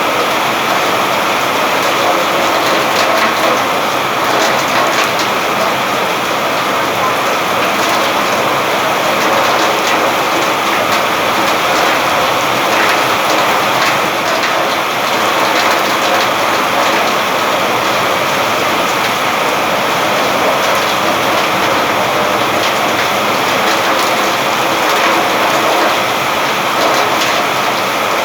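Steady rain falling, with a dense patter of individual drops and no let-up.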